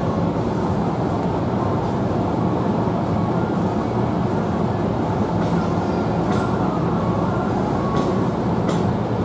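An Amtrak passenger train passing at speed, a steady loud rumble of steel wheels on rail with a few sharp clicks in the second half.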